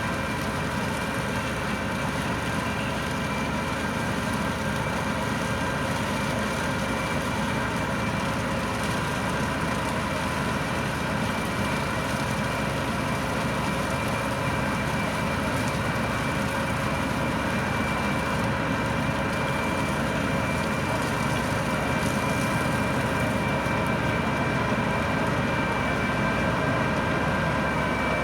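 A tractor and a Standen T3 three-row trailed potato harvester running steadily while harvesting. Engine and machinery noise carries a steady whine of several pitches.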